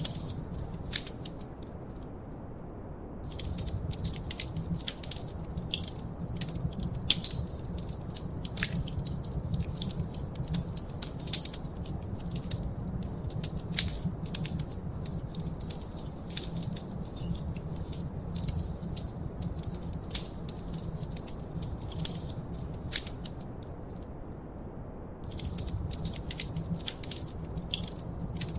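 Wood fire in a fireplace crackling, with many sharp pops over a steady low rumble of the flames. The crackling drops out for about a second twice, once near the start and once near the end.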